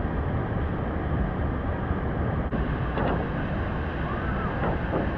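Rushing mountain river water, a steady loud rush with a heavy low rumble from wind buffeting the microphone.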